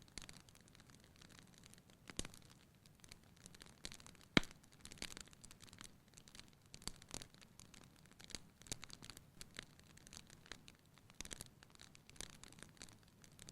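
Wood fire crackling in a fireplace: irregular small snaps and pops over a faint hiss, with one sharp, louder pop about four seconds in.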